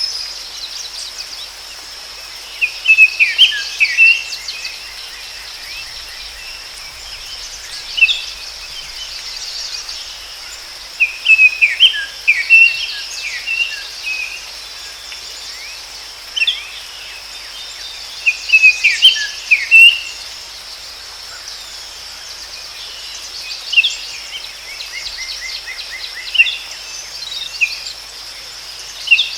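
Forest ambience: songbirds singing short chirping phrases every few seconds over a steady, high insect drone.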